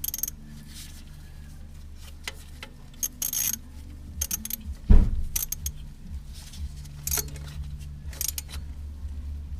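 Short metallic clinks and rattles, like keys or small tools being handled, over a steady low hum, with one heavy thud about five seconds in.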